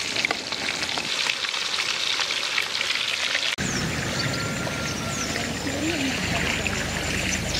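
Noodle-coated ribbon fish deep-frying in hot oil, a dense crackling sizzle. About three and a half seconds in, it cuts abruptly to outdoor field sound: wind rumbling on the microphone, with a few faint high chirps.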